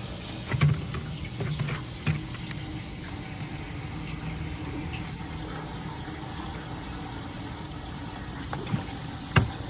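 Water from a garden hose running steadily into an aluminum boat fuel tank, filling it to rinse it out. A few short knocks sound in the first two seconds and once more near the end.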